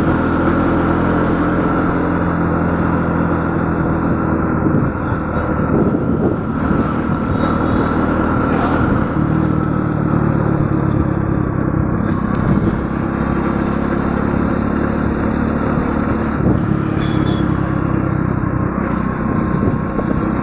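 An engine running steadily, a continuous low hum with only small changes in level.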